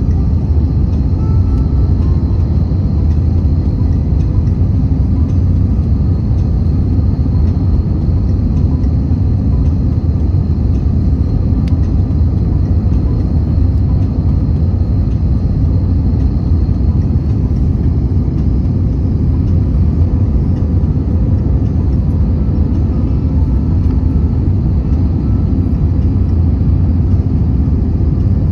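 Steady low rumble of an airliner's engines and airflow heard from inside the cabin during descent, with a faint high whine that fades out about two-thirds of the way through.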